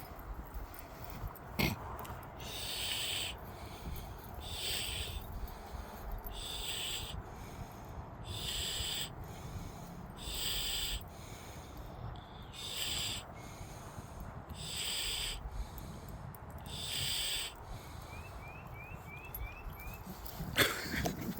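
Heavy, rasping, Darth Vader-like breathing, one loud wheezing breath about every two seconds, over a low rumble.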